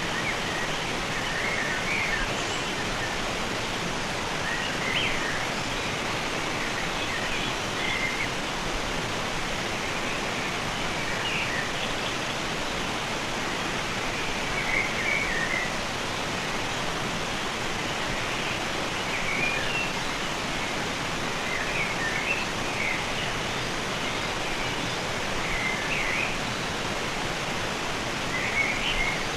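Fast-flowing river water rushing steadily, with short bird chirps every few seconds.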